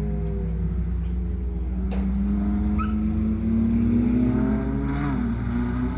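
Ferrari 458 Italia's V8 engine heard from trackside as the car laps. Its pitch falls at first, then climbs steadily for about three seconds and drops sharply about five seconds in.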